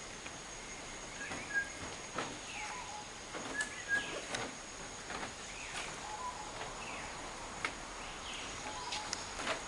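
Birds calling in a rainforest: short whistled notes and chirps come every second or two, with a few sharp clicks. Beneath them run a steady hiss and a thin, steady high tone.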